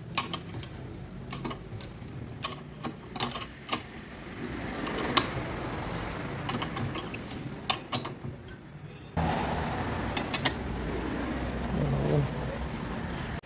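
Ratchet wrench and steel hand tools at work on car suspension parts: quick irregular metallic clicks and clinks, thickest over the first few seconds and again around eight to ten seconds, over a steady background noise.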